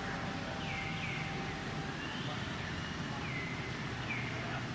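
A bird calling with short chirps that fall in pitch, about one a second, over steady background noise and a low hum.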